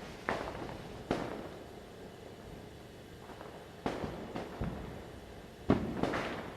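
Firecrackers going off at intervals, single sharp bangs each with a short echoing tail, the loudest near the end, over a steady background of more crackers.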